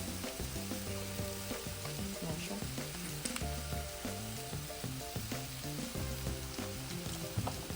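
Ground beef frying in a skillet, a steady sizzle with a few short sharp clicks.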